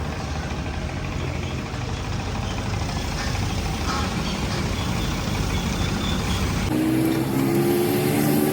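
An engine running steadily with a low hum. About two-thirds of the way through, the sound cuts abruptly to another engine note that rises slightly in pitch.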